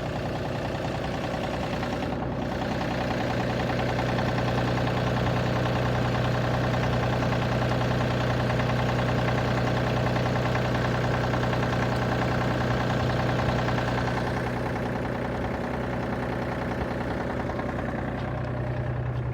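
Tractor engine running at a steady idle just after starting. It grows a little louder about three seconds in and eases back around fourteen seconds.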